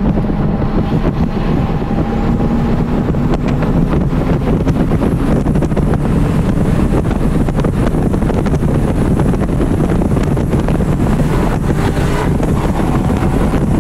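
2012 Porsche Cayman R's 3.4-litre flat-six accelerating in third gear, revs climbing from about 4,100 to 5,800 rpm, heard inside the cabin over heavy wind and road noise.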